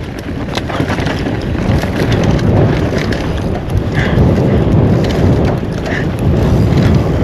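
Mountain bike riding downhill on a rocky dirt trail: wind rushing over the microphone, tyres rolling over dirt and rocks, and the bike knocking and rattling over bumps.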